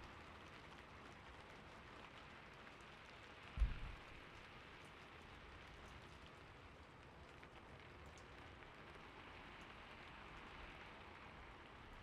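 Gentle, steady rain hiss, with one short low thump a little under four seconds in.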